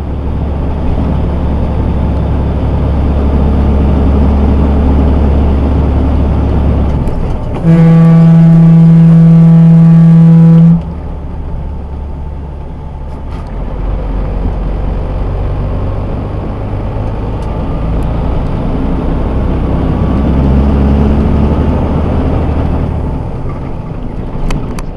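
Semi truck engine running, heard from inside the cab, with a loud steady horn blast lasting about three seconds from about eight seconds in. After the horn the engine pitch rises and falls as the truck pulls.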